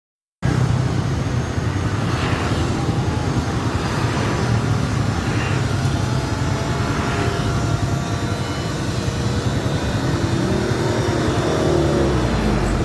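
Airplane in flight, a steady rumble throughout, with a tone falling in pitch near the end.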